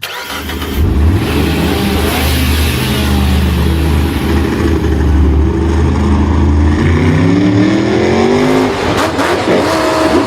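A vehicle engine revving loudly. Its pitch sinks over the first few seconds, then climbs again before levelling off near the end.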